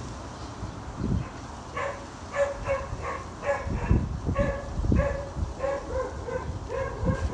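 An animal giving short, repeated barking calls, about two a second, starting nearly two seconds in, over low rumbling wind gusts on the microphone.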